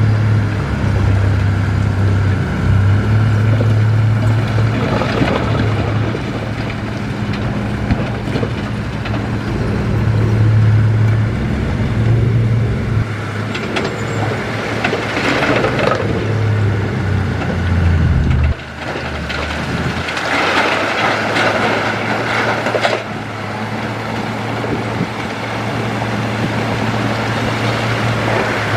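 Heavy diesel earthmoving machinery running. A steady low engine drone drops off abruptly about two-thirds of the way in and carries on at a lower level. Bursts of rough mechanical noise come around the middle and again a couple of seconds after the drop.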